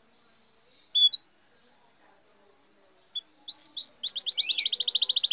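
A small songbird singing: a single short high chirp, then a few rising notes that run into a fast trill of rapidly repeated high notes near the end.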